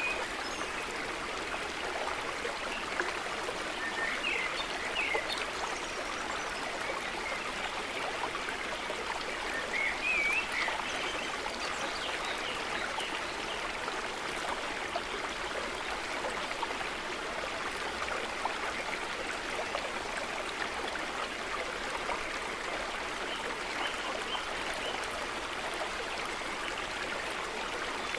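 A stream running steadily, a continuous rushing trickle of water, with a few short high bird chirps about four and ten seconds in.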